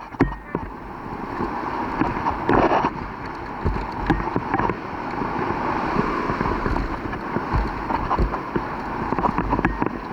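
Wind buffeting the microphone of a moving vehicle, a steady rushing noise with low rumbles and scattered knocks.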